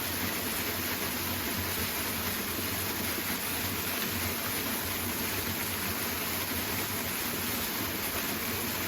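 Waterfall, water rushing steadily.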